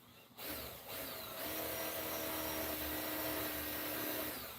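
Power drill boring a pilot hole into a wooden stair stringer: the motor spins up, eases off briefly about a second in, then runs steadily for about three seconds and stops near the end.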